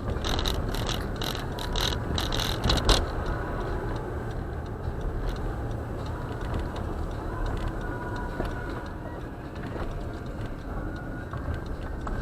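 Steady low rumble of a car driving on snowy roads, heard from inside the cabin. For the first few seconds it is overlaid by a quick run of sharp ticks, about four a second, which then stop.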